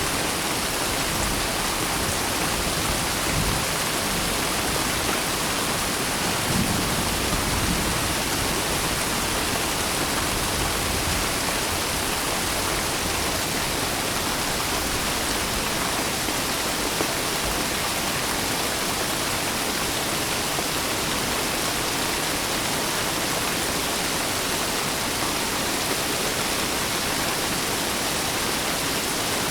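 Steady rain falling, an even hiss with no break, and a brief low rumble about seven seconds in.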